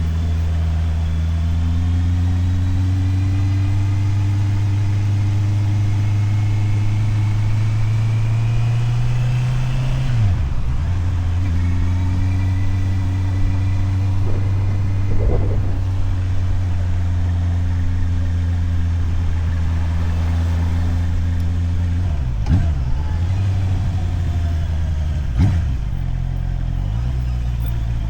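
Motorcycle engine pulling steadily along a street. Its note climbs slowly for about ten seconds, drops sharply and picks up again, then holds steady, with two more brief dips near the end.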